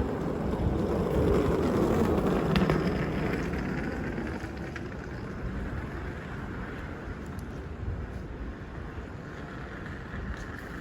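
Outdoor city ambience: a rumbling noise swells over the first three seconds, then fades to a steady, quieter background.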